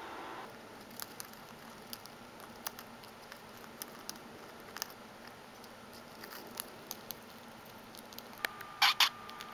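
Pet budgerigar making light scattered clicks and taps, then two short, loud chirps near the end.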